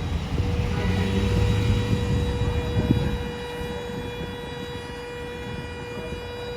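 Vehicle driving on a road: a low rumble of road and engine noise, louder for the first three seconds and then easing. A steady high-pitched electrical whine runs over it.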